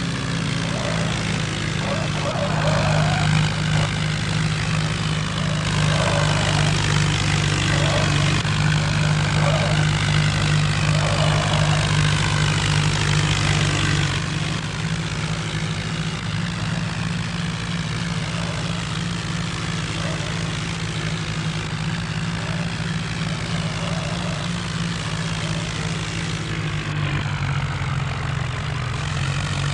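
Modified John Deere tractor's diesel engine running hard and steadily, louder for roughly the first half, then easing off a little.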